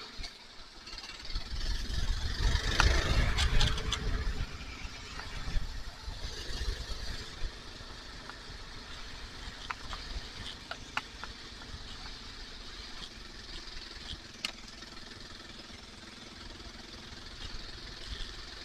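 Kawasaki KLR single-cylinder motorcycle engine running while riding, with wind rushing over the helmet microphone. The wind rumble is loudest from about two to five seconds in, then settles to a steadier, quieter run.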